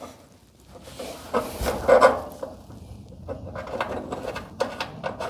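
Light knocks, clicks and scrapes at irregular intervals as a metal garage door hinge is handled and positioned against the door panel.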